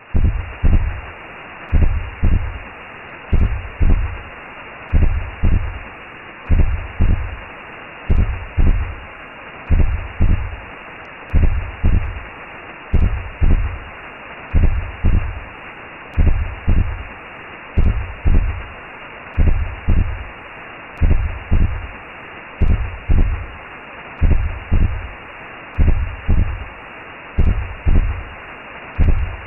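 Recreated womb sound: a slow heartbeat, each beat a deep lub-dub double thump about every second and a half, over a steady muffled whooshing hiss.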